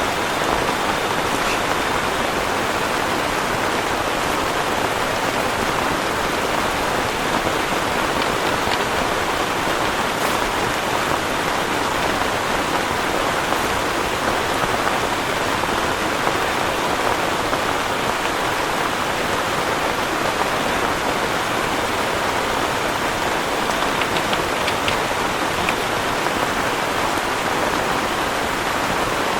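Heavy rain falling steadily, an even hiss that holds without let-up.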